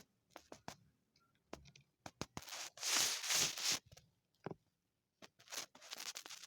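Kittens scuffling at play: scattered light taps, scrapes and clicks of paws and claws, with a longer rustling noise about three seconds in and again near the end.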